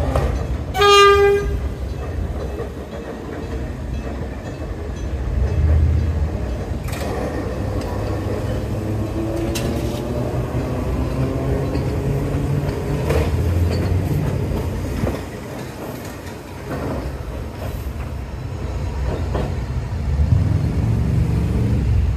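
Enoden electric train sounding one short horn blast about a second in, then rumbling past close by, with a few sharp clicks from its wheels on the rails.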